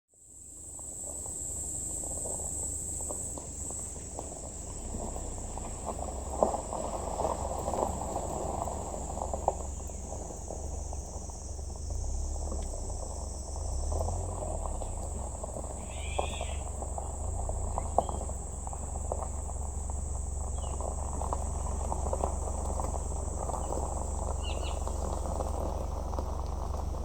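Summer forest insects keeping up a steady, high-pitched drone, with a few short bird chirps in the second half. Soft rustling with scattered clicks runs underneath.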